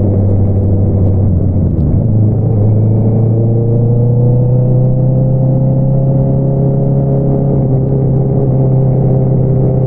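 2022 Honda CBR650R's inline-four engine running through an Akrapovič single-outlet exhaust while riding. The note breaks briefly about two seconds in, then climbs gently and holds steady.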